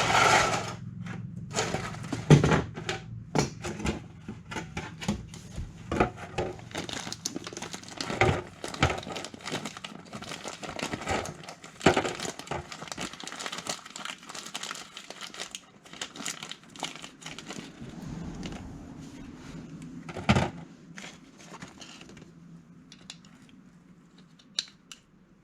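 Irregular clicks, knocks and rustling, like parts or tools being handled, with a faint low hum underneath; the clicks thin out near the end.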